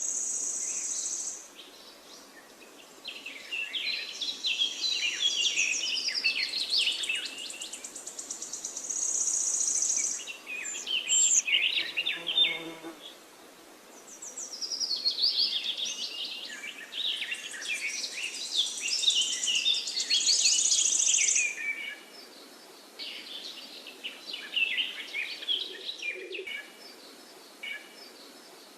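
Songbirds singing in chirping, warbling phrases. A high, thin buzzing trill comes in several times, each for a second or two.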